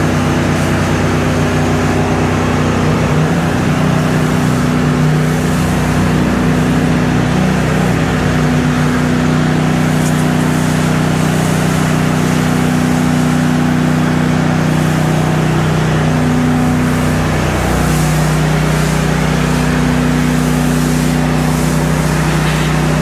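Pressure washer engine running steadily, with the hiss of the high-pressure water spray over it; the engine note wavers briefly about seventeen seconds in.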